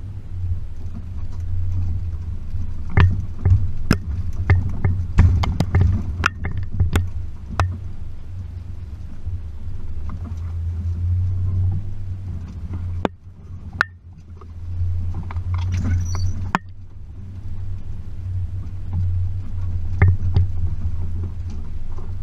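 Low, steady drone of a Range Rover P38's 4.0 V8 driving slowly over a rough, rutted track. A run of sharp knocks and rattles comes between about three and eight seconds in, more clatter follows around sixteen seconds, and a single knock comes near the end. The drone eases briefly about thirteen seconds in.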